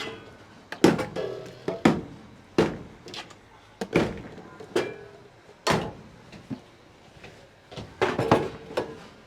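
Irregular knocks and clanks of kitchen containers and utensils being handled and set down, some with a short metallic ring.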